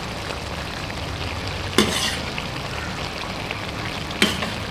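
Mutton and cauliflower curry frying in an aluminium pot, with a steady sizzle. Two short sharp knocks are heard, one about two seconds in and one near the end.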